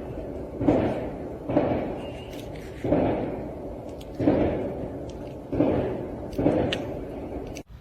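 A series of heavy thuds, about one every second, each starting sharply and fading quickly, ending abruptly near the end.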